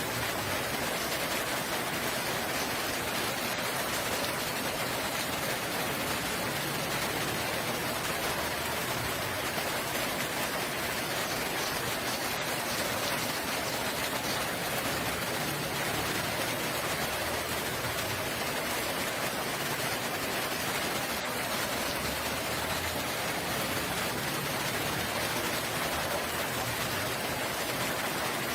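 Steady rain falling, a constant even hiss that does not build or fade.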